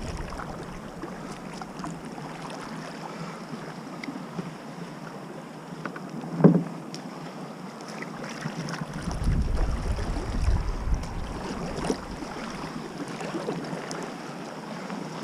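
Kayak paddling on the sea: water splashing and lapping as the paddle dips, with small scattered ticks. A single loud knock comes near the middle, and gusts of wind rumble on the microphone a little after.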